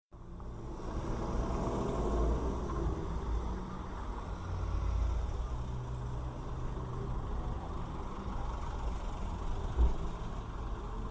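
Road vehicle noise: a steady low engine and road rumble, with one sudden thump about ten seconds in.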